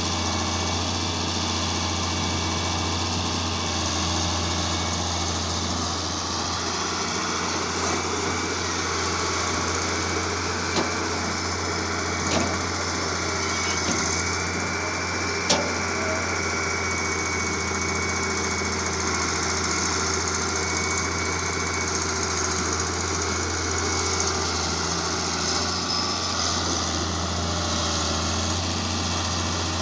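Heavy machinery engine running steadily under load with a low hum, with a few sharp knocks about a third to halfway through.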